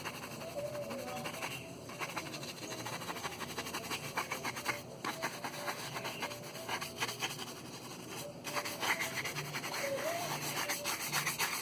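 Rapid, repeated hand strokes rubbing or sanding the surface of a plastic car bumper, in four runs separated by brief pauses.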